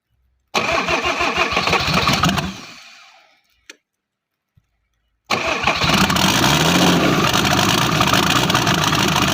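Mercedes 3.0-litre diesel engine in a UAZ cranking and catching, running for about two seconds and then dying away. After a short silence with one click, it starts again about five seconds in and keeps running steadily.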